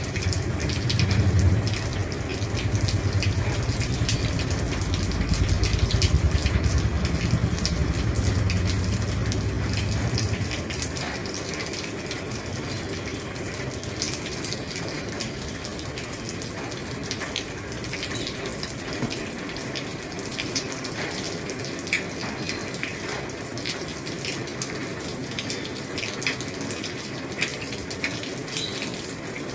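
Heavy rain falling on an old roof: a dense steady hiss of rain with many separate drop ticks. A low rumble runs under it for the first ten seconds or so, then fades out.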